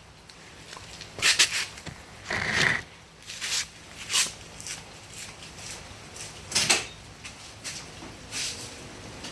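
Scattered knocks, clicks and rustles, about a dozen short ones at irregular spacing, with no engine running.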